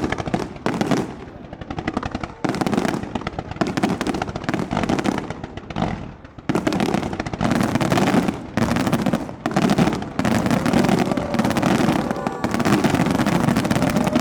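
Fireworks display: dense volleys of rapid crackling bangs, each lasting a second or so, with brief gaps between them. Near the end the volleys run together into one long crackle.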